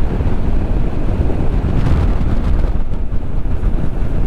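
Steady wind rushing over the microphone of a moving motorcycle, with road and engine noise beneath it.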